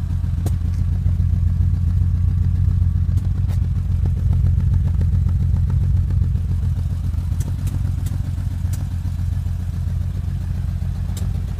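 Ferrari 400's V12 engine running steadily at a low, even speed on its first run after sitting unused since 2008, with a few faint ticks over it.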